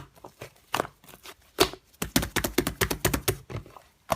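Slime being squished and worked in the hands, giving a run of sharp sticky clicks and pops that come thickest about halfway through.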